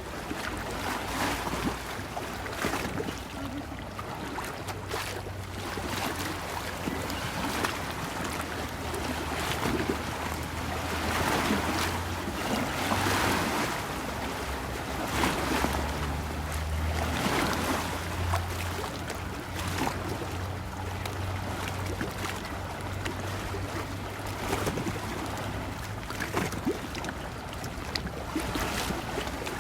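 Lake water lapping and splashing in irregular slaps, with wind and a low steady motor hum, typical of a boat on the lake.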